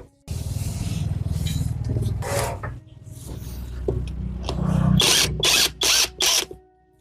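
Power tool running steadily for several seconds, then four short, loud strokes near the end.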